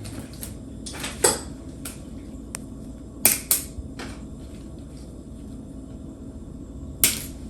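Plastic rattan strands being handled and knotted under a chair seat: a few short, sharp crackles and clicks, about a second in, twice around three and a half seconds in, and once near the end.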